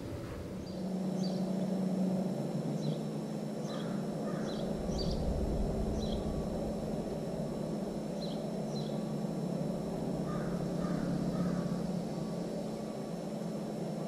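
Wild birds calling: short high chirps scattered throughout, and lower calls twice around four seconds in and three in quick succession near the end, over a steady low hum.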